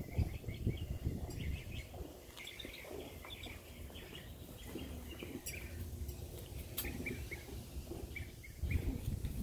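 Birds chirping, with many short calls repeating throughout, over a low rumble on the microphone.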